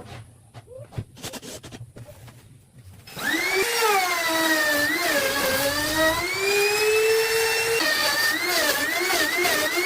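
A few light knocks, then about three seconds in an electric power tool starts and runs with a loud, high whine. Its pitch dips and recovers again and again, several quick wobbles near the end.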